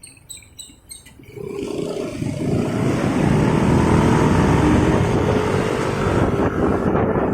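Motorcycle pulling away and accelerating, its engine note rising slightly under a growing rush of wind and road noise that builds from quiet to loud over the first few seconds.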